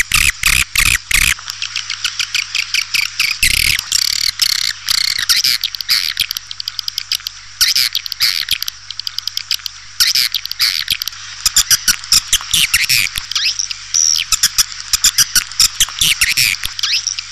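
Swiftlet calls: a dense, fast chatter of short chirps, clicks and twittering trills, many sweeping quickly up and down in pitch. It is a call recording of the kind played to lure swiftlets into nesting houses.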